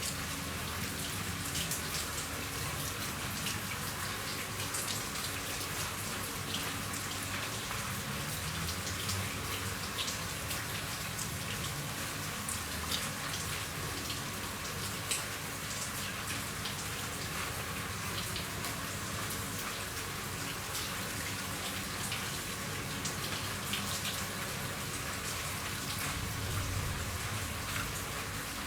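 Steady rain falling on a roof, with many individual drops ticking sharply on the surface.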